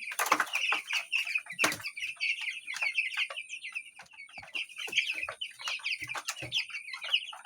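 A flock of young chicks, about two weeks old, peeping continuously in many overlapping short high calls, with scattered knocks and scuffs among them.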